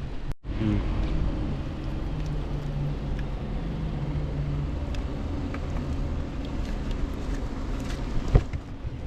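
A steady low engine hum with scattered light clicks, and a sharper knock near the end.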